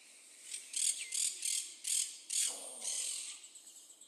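Bird giving a quick series of short, high chirps, about three a second, with one call about halfway through sliding down in pitch.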